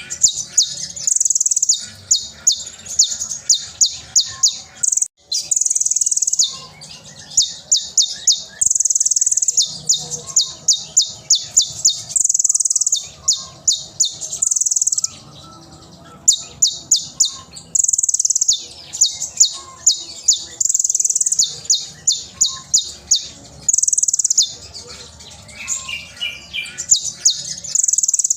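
Kolibri ninja (konin) sunbird singing loudly: runs of sharp, high-pitched chirps at about five a second, alternating with short continuous trills, over and over.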